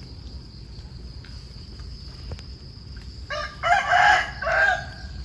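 A rooster crowing once: a short first note about three seconds in, running into a loud, drawn-out call of about a second.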